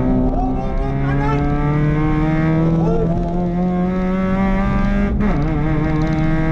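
Rally car engine heard from inside the cabin, pulling hard with its pitch climbing steadily through the gears. The pitch drops sharply at an upshift just under a second in, and again about five seconds in, then climbs once more.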